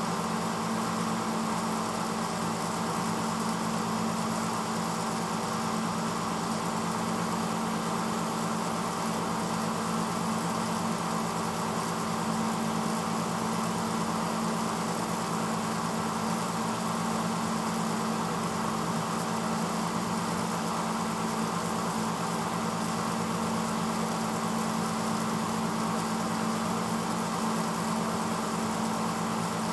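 1986 Hotpoint Potwasher dishwasher running mid-cycle: a steady, unchanging motor hum with an even rushing noise over it.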